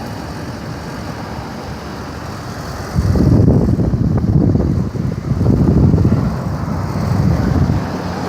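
Street traffic noise, with a loud low rumble that sets in suddenly about three seconds in, swells and dips, and eases off near the end.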